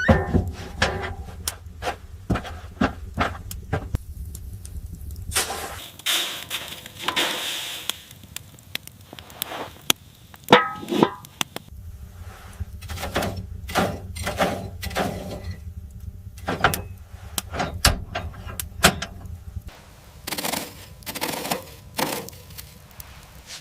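Irregular knocks and clatter, with a few longer rustling or scraping bursts and a low steady hum underneath.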